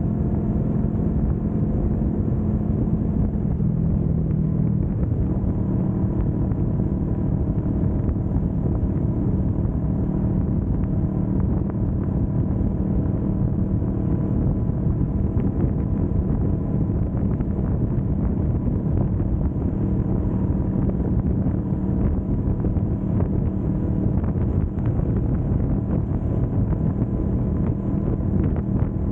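Kawasaki Vulcan S 650's parallel-twin engine running steadily while cruising on an expressway, with wind rushing over the microphone. The engine note shifts slightly about five seconds in, then holds steady.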